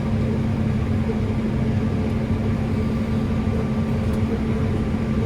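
Steady drone of a running engine and machinery heard from inside a harvest vehicle's cab, with a constant low hum and no change in pitch.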